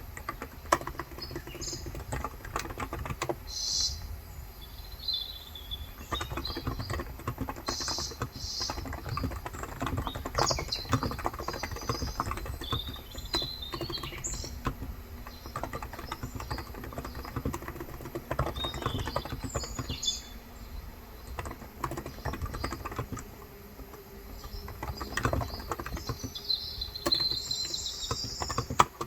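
Continuous typing on a Cox Endeavour 35 g electrostatic-capacitive (Topre-style) tenkeyless keyboard, a steady run of keystrokes. Birds chirp now and then in the background.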